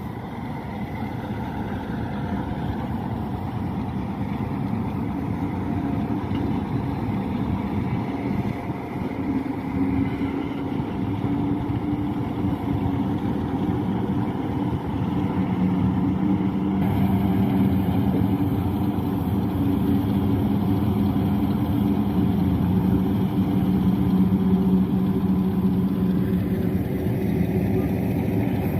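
Pakistan Railways 2000 hp Hitachi diesel-electric locomotive's engine running steadily as it hauls a heavy train, a continuous low hum that shifts in pitch and grows a little louder a little past halfway.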